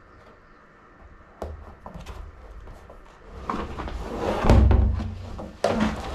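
Clunks, knocks and heavy thumps of someone working inside a large plastic barrel. Faint at first, getting busier from about three seconds in, with the loudest thumps near the end.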